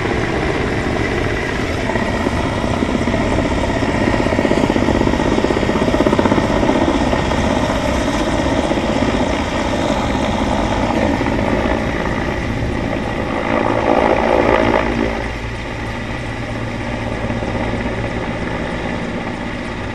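Helicopter running: a steady, loud drone of rotor and engine. It swells into a louder rush about two-thirds of the way through, then settles a little quieter.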